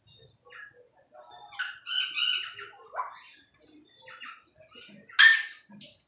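Caged pet birds calling: a run of chirps about two seconds in, a short rising whistle at about three seconds, and one loud sharp call near the end.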